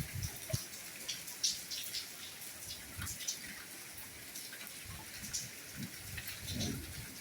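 Soft rain falling: a steady hiss with scattered drops ticking, and a few soft low thuds of heavier drips.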